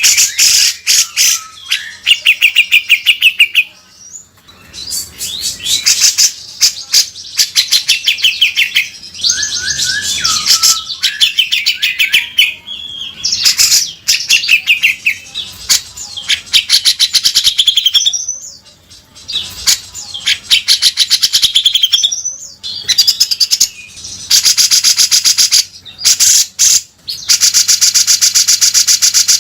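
Cucak jenggot (grey-cheeked bulbul) singing loudly and almost without a break, in harsh, rasping chatters and fast rattling trills broken by short whistled glides. This is the rough 'beset' call type that keepers play to train other songbirds.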